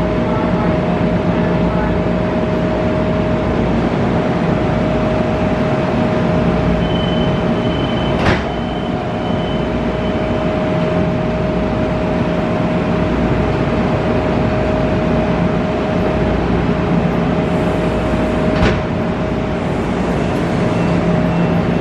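Stationary Metro-North electric multiple-unit commuter train humming at the platform, a steady hum with a constant whine from its onboard equipment. Two sharp clicks stand out, about eight seconds in and again near eighteen seconds.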